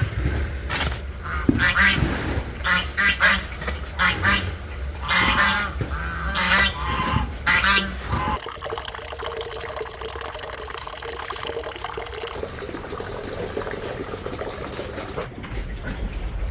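Farm animals calling in a quick run of short, wavering calls for about eight seconds, then a steadier, quieter hum.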